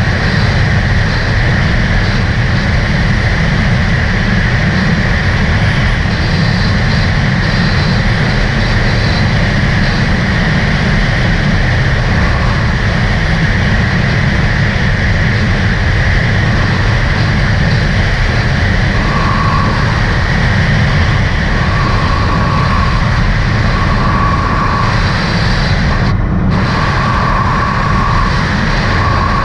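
2018 Sea-Doo RXT-X 300 personal watercraft with a supercharged three-cylinder engine, running steadily under way with a loud, even rush of noise.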